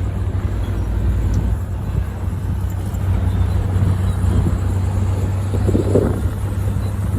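Heavy diesel earth-moving machinery running steadily with a low engine hum, swelling briefly about six seconds in.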